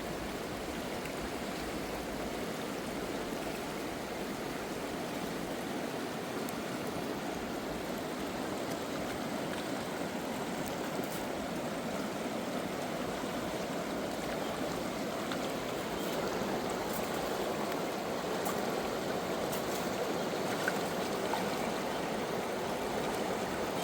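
River water flowing steadily, a continuous rushing of current.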